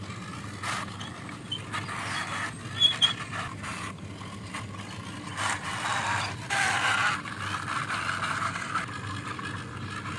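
A plastic toy fire truck pushed by hand along a wall: its wheels roll and scrape over the rough surface, with scattered small clicks and knocks and a louder scraping stretch about six seconds in.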